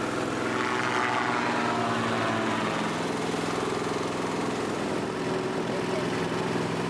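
Small boat's engine running steadily under way, an even drone.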